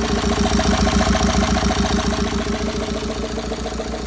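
BMW 520d's N47 four-cylinder diesel engine idling with an even pulsing beat. This is the engine misfiring on cylinder 2 that is due a new timing chain.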